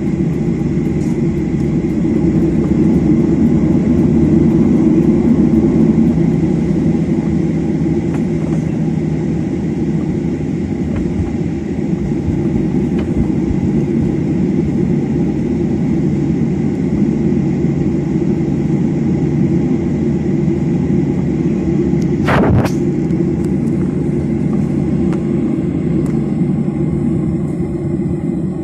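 Steady low rumble of a moving vehicle, with one brief sharp sound about 22 seconds in.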